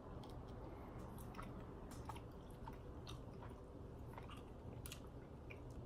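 A person chewing a soft, marshmallow-like banana candy, faint, with small irregular clicks and smacks of the mouth.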